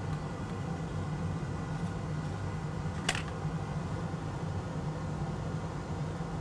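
Steady low fan-like hum of a workbench, with a single sharp click a little past three seconds in.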